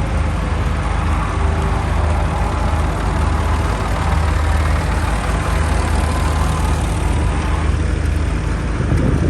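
A heavy engine running steadily at a low, even pitch, briefly louder near the end.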